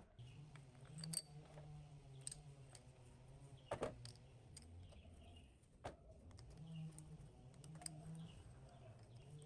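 Faint, scattered metallic clicks and taps, the sharpest about four seconds in, over a low hum that fades in and out.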